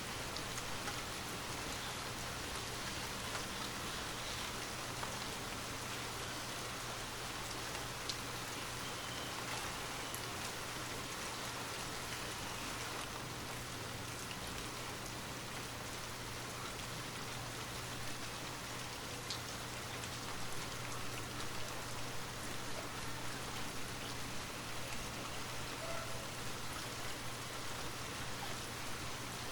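Steady rainfall, an even hiss with scattered drops pattering on a surface, used as a background rain track.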